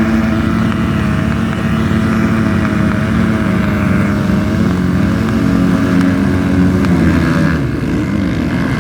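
Motocross dirt bike engines running hard at high revs, a steady engine note that climbs just at the start and drops away about seven seconds in.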